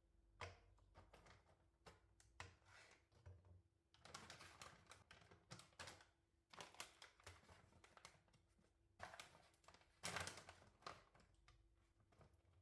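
Faint, irregular light taps and clicks of objects being handled, with two longer stretches of rustling or scraping, one about a third of the way in and one near the end.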